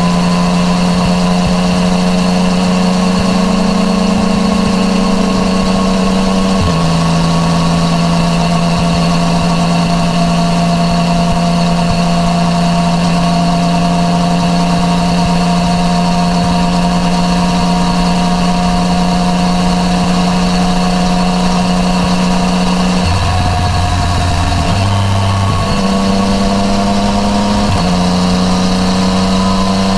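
Yamaha MT-09 Tracer's inline-three engine running through an Akrapovič titanium full exhaust while riding. The engine note is steady, drops in pitch in a step about seven seconds in, and shifts down and back up several times in the last seven seconds.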